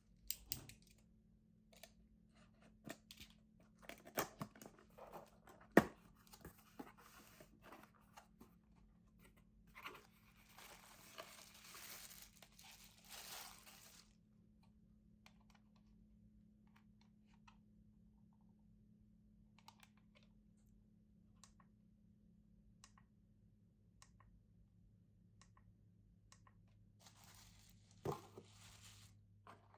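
Faint handling of product packaging being unboxed: scattered clicks and knocks, with a few seconds of tearing, crinkling paper or card near the middle.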